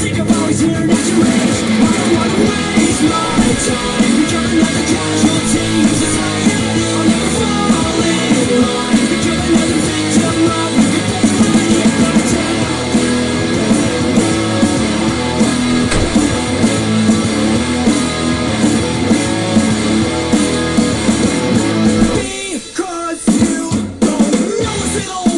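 Loud rock music with distorted guitar, drum kit and singing, dropping briefly near the end before starting up again.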